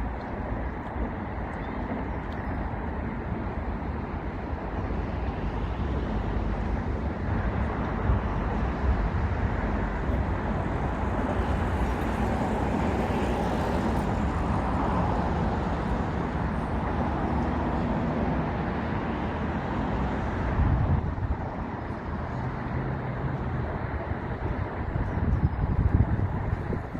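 Steady low rumble of road traffic, swelling a little through the middle.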